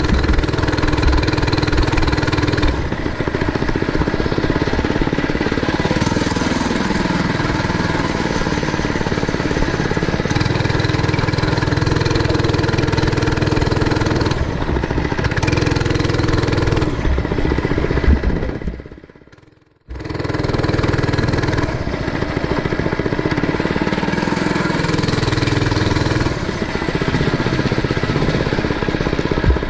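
Mini bike's small engine running under riding load, its pitch falling and rising as the throttle changes. The sound fades and breaks off for about a second two-thirds of the way through, then comes back just as loud.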